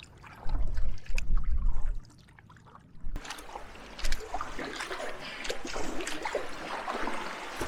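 Canoe paddling: water trickling and splashing off the paddle as it moves through the lake. A low rumble fills the first couple of seconds. From about three seconds in, a steadier run of small splashes and drips takes over.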